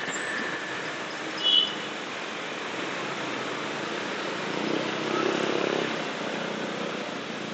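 Steady road and wind noise from a motorcycle ride in traffic. A short, loud, high beep comes about a second and a half in, and an engine note swells for a second or so past the middle.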